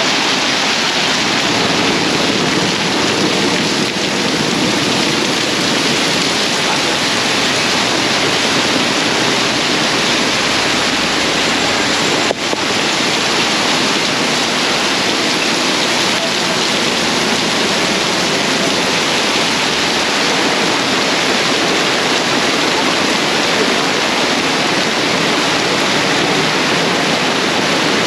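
Heavy tropical downpour: torrential rain pouring steadily in a loud, dense hiss.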